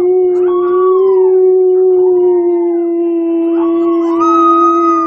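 Dogs howling: one long, steady howl that stops near the end, with a second, higher howl rising and falling over it.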